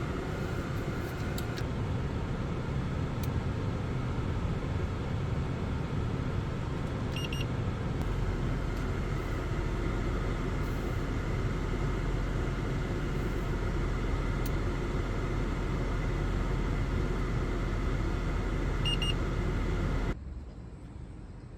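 Steady running noise of a Genesis G80 heard from inside the car, a low rumble and hiss, with two short electronic double beeps, one about seven seconds in and one near the end. The noise cuts off suddenly shortly before the end.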